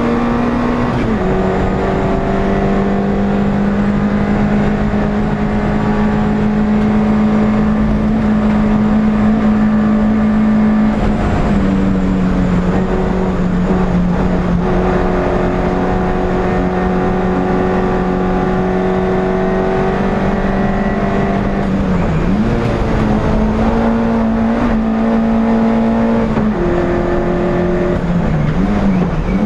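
NSU TT's air-cooled four-cylinder race engine running hard at high revs, heard from inside the car. The pitch holds steady for long stretches, steps down about a second in and again about 11 seconds in, and dips briefly twice near the end.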